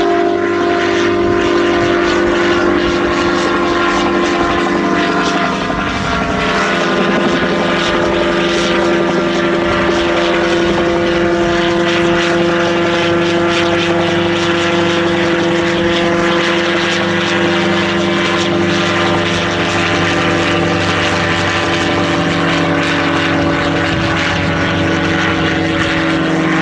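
Autogyro's engine and propeller droning steadily at power, the pitch shifting slightly about six seconds in.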